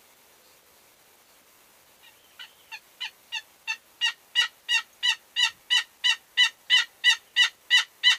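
A long, evenly spaced series of turkey yelps, about three a second, starting about two seconds in and growing steadily louder.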